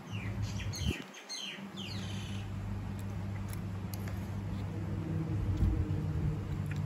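A small bird gives a quick series of short, high, falling chirps for the first couple of seconds, over a steady low mechanical hum that grows and holds. A few faint light clicks follow.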